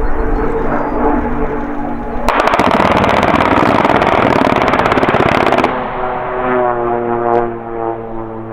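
A Pilatus PC-7 propeller trainer drones overhead. About two seconds in, a burst of rapid machine-gun fire from its gun pod lasts roughly three and a half seconds and cuts off suddenly. A steady droning tone follows.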